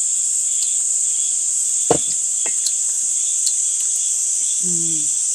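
Steady high-pitched chorus of insects chirring without a break, with a single sharp click about two seconds in.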